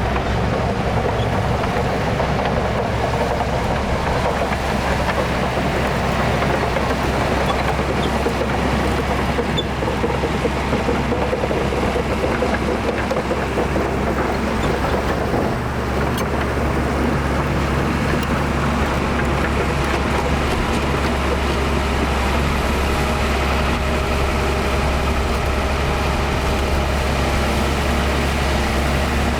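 Heavy diesel engine of earthmoving machinery running steadily, with a strong deep hum and little change in pitch for the whole stretch.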